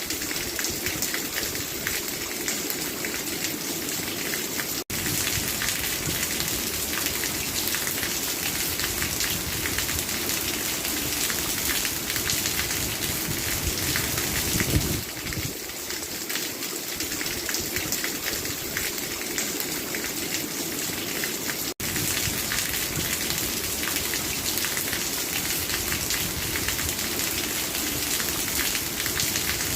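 Steady, heavy rain falling, a dense unbroken patter of drops. The sound cuts out for an instant twice, about five seconds in and again about twenty-two seconds in.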